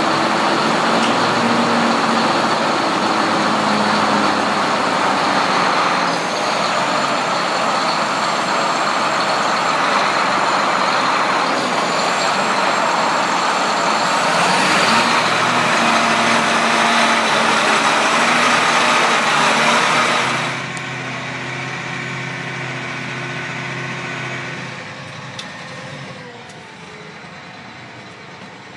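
John Deere 8235R tractor's diesel engine running loud under a strong hiss, with a high whine that rises about halfway through. About two-thirds of the way in the sound drops sharply to a quieter, steadier engine note, which eases lower again near the end.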